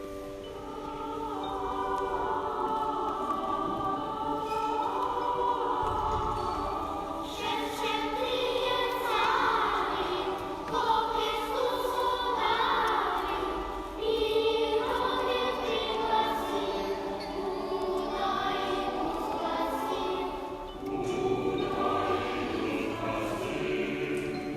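Children's and adult choir singing together, a Christmas carol in Old Russian with long sustained phrases.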